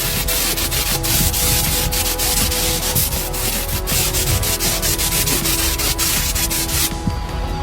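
Sanding of the moped's bodywork: a continuous, scratchy rubbing made of many quick, irregular strokes, with a brief break in the hiss near the end.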